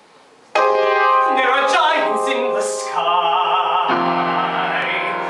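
Male voice singing a show tune with piano accompaniment, starting abruptly about half a second in, with held, wavering notes.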